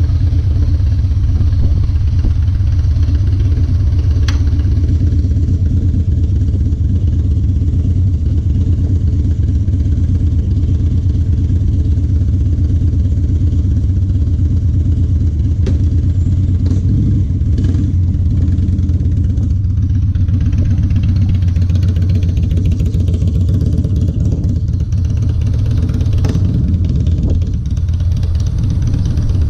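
Harley-Davidson Dyna Low Rider's V-twin running steadily at idle through TBR aftermarket exhaust pipes.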